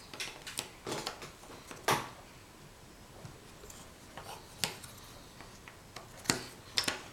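Jigsaw puzzle pieces being handled and fitted together by a child: a scattering of light clicks and taps, the loudest about two seconds in.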